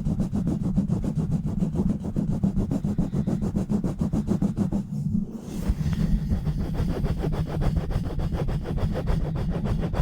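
Fast rubbing directly on a bare microphone with no windscreen, a quick even rhythm of rough strokes heavy in low rumble, with a brief let-up about halfway through.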